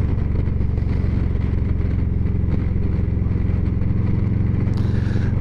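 Motorcycle engine running at a steady cruise while riding, a constant low drone with no change in revs.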